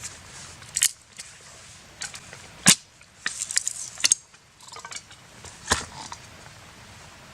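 Wood cracking and snapping: three sharp cracks, the loudest near the middle, with crunching and scraping of sticks in between.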